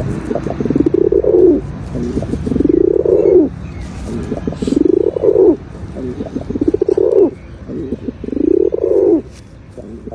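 Male domestic pigeon cooing repeatedly: about five rough, throaty coos roughly two seconds apart, each rising and then falling in pitch.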